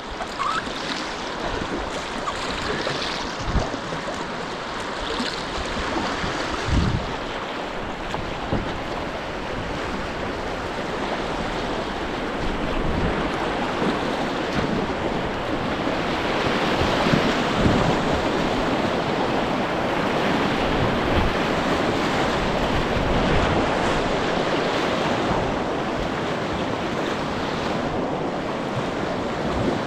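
Steady rush of river water running over shallow rapids, swelling a little after the midpoint. A few short low thumps of wind buffeting the microphone.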